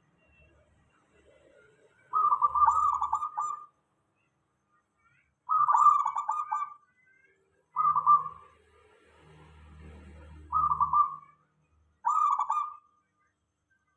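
Zebra dove (perkutut) cooing: five short, rapid, trilled coos in a row, with pauses between them.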